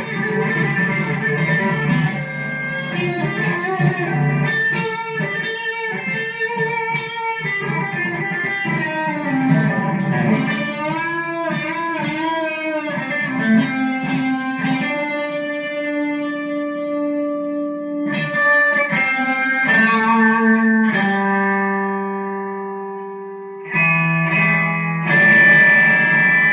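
Instrumental break in a gospel song: an electric guitar plays a melodic passage with bent, wavering notes, then settles into long held notes over the accompaniment.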